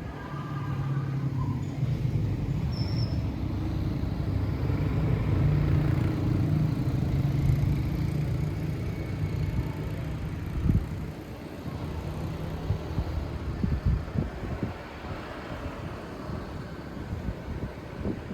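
Wind noise with the low hum of a motor vehicle engine, swelling towards the middle and then fading, and a few short thumps in the second half.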